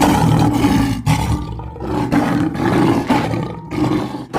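Lioness roaring: a run of rough, loud roars that swell about once a second.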